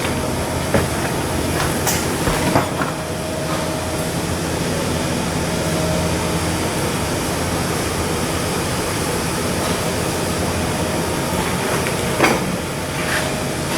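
Steady, loud machinery noise of shipbuilding work, with a few sharp metallic knocks scattered through it.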